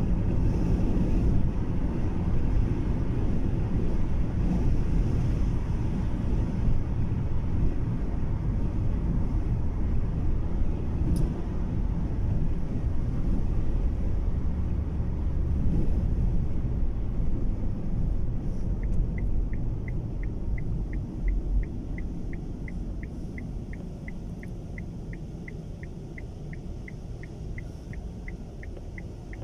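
Low, steady road rumble inside a moving car's cabin, growing quieter in the second half as the car slows. About two-thirds of the way in, the turn-signal indicator starts ticking steadily, about three ticks a second.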